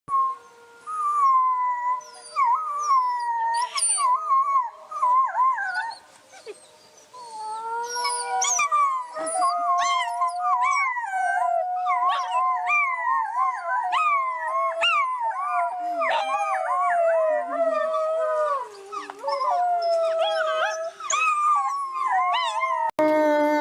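A pack of wolves howling in chorus: several long, overlapping howls gliding up and down, mixed with short high yips. The chorus breaks off abruptly near the end.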